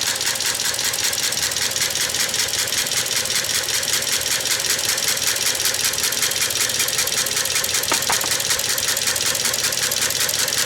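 1908 Matheson four-cylinder engine turned over unfired by a belt from a sewing machine motor, its make-and-break ignition cams, triggers and hammers clattering in a fast, steady rhythm.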